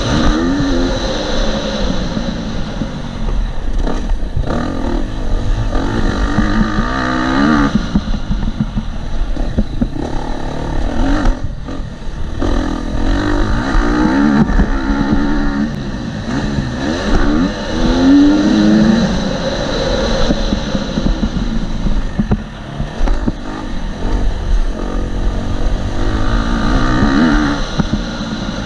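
KTM 250 SX-F four-stroke single-cylinder dirt bike engine on a motocross lap, its revs rising and falling again and again, with wind noise on a helmet-mounted camera.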